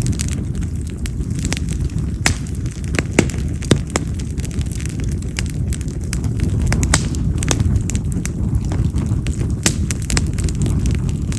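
Yamazakura (Japanese mountain cherry) firewood burning in an open fire: a steady low rush of flame with frequent sharp crackles and pops at irregular intervals.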